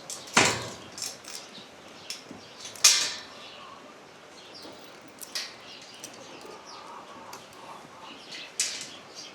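Several sharp knocks and clatters, the loudest about half a second in and again near three seconds, with fainter taps between them.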